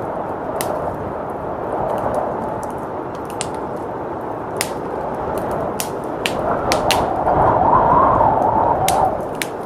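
Wood fire in a fireplace crackling, with irregular sharp pops, over a steady blizzard wind that swells louder for a couple of seconds near the end.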